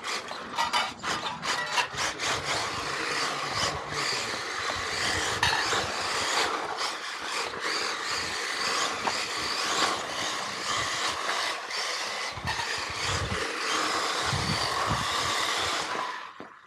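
Electric radio-controlled Xray XB4 car running flat out on pavement: a steady rush of tyre and drivetrain noise with many quick clicks. It cuts off suddenly near the end.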